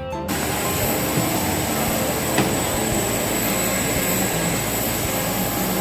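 Steady roar of jet airliner engines with a thin high whine over it, and a single knock about two and a half seconds in.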